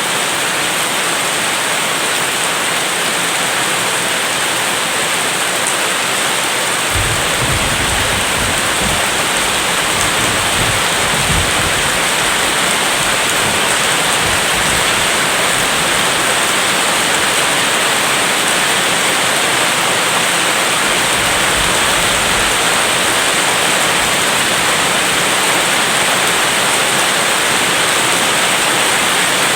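Steady heavy rain. A low rumble of distant thunder comes in about seven seconds in and lasts several seconds, with a fainter rumble later on.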